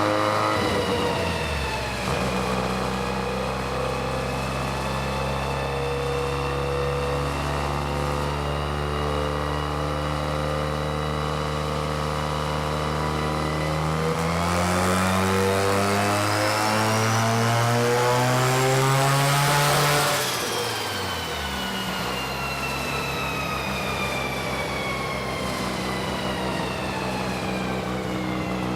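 Turbocharged car engine on a chassis dyno, running at a steady speed, then a full-throttle pull with the revs climbing for several seconds. The throttle closes abruptly about two-thirds of the way in and the pitch falls away as the engine and rollers wind down.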